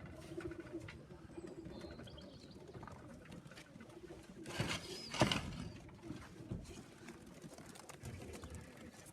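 Racing pigeons cooing around the loft, with a couple of sharp sounds about four and a half to five seconds in.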